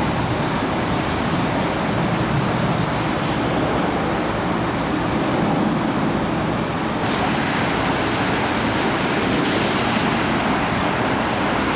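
Jet airliner engines running with a steady, even noise that does not rise or fall, mixed with heavy rain.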